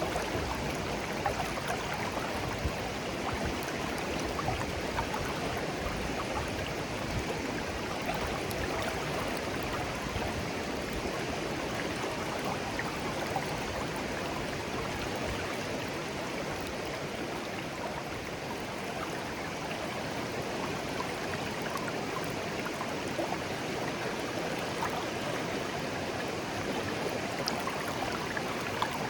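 Shallow clear stream flowing steadily over stones, a continuous babbling wash with small scattered splashes and trickles.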